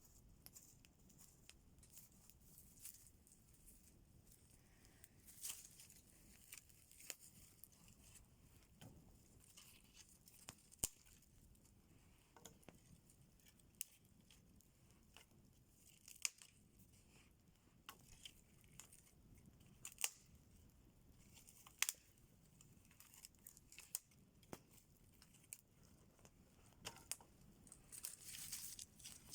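Faint, irregular sharp clicks and crackles over near quiet, a few of them louder, and a denser patch near the end.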